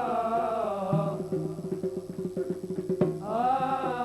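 Live Arabic wedding music: a long held note, then from about a second in a fast run of drum strokes over a steady sustained tone, with a new held note starting near the end.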